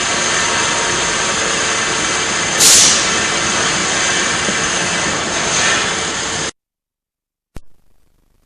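Sewer jetter's engine and high-pressure pump running steadily with a thin high whine, cutting off abruptly about six and a half seconds in; a single click about a second later.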